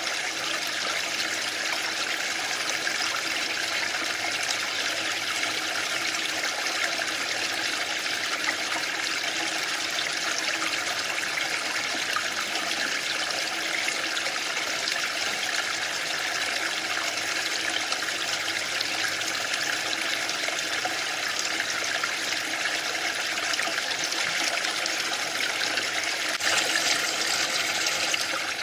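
Waterfall: a steady rush of falling water, getting a little louder and brighter for about two seconds near the end.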